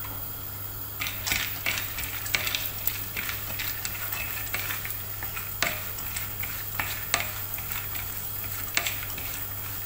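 Broken cashew pieces frying in hot ghee in a non-stick kadai, sizzling steadily, while a wooden spatula stirs them and scrapes the pan with a few sharper scrapes now and then.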